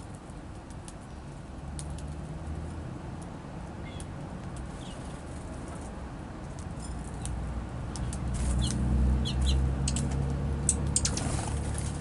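Small songbirds at a seed feeder: a few short high chirps, quick clicks and wing flutters, over a low rumble that swells for a few seconds about two thirds of the way through.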